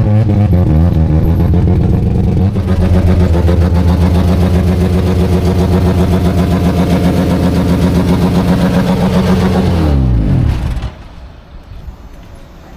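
Mazda rotary engine running loud at steady revs close by. About ten seconds in, its pitch falls away and the sound cuts off abruptly.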